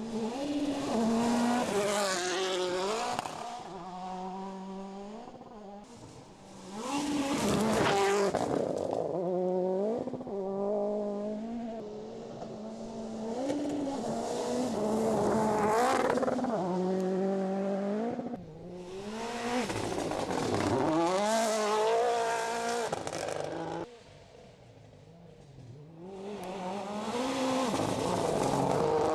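MINI John Cooper Works WRC rally car's 1.6-litre turbocharged four-cylinder engine revving hard as the car is driven, its pitch repeatedly climbing and dropping through gear changes and lifts. The sound swells and fades several times, with a brief quieter spell about two-thirds of the way through.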